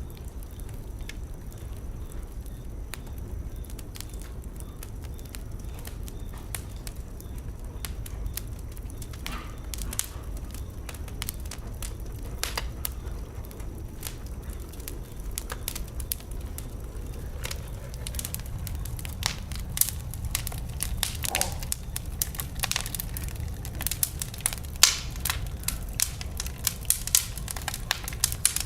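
Wood fire burning in a fireplace: a steady low rumble of flame with sharp crackles and pops, sparse at first and growing denser and louder over the last third.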